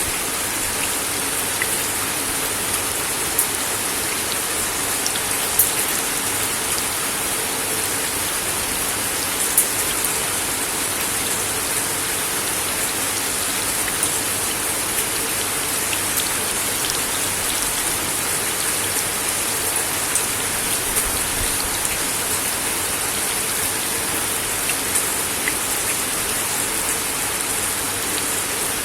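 Steady rain falling on a wooden deck, an even hiss with individual drops ticking sharply on the boards now and then.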